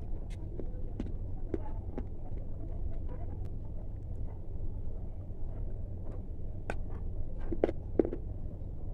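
Something crisp being crunched: scattered soft crackles and clicks, with two sharper crunches near the end, over a steady low hum.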